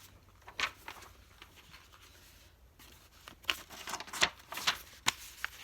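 Pages of a picture book being turned: dry paper rustling and brushing, one short swish about half a second in, then a run of rustles and flicks in the second half.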